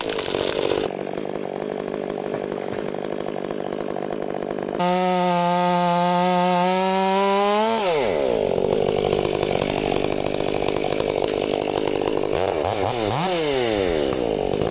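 Two-stroke chainsaw running at high revs and cutting wood, its engine revving up and down near the start and again near the end.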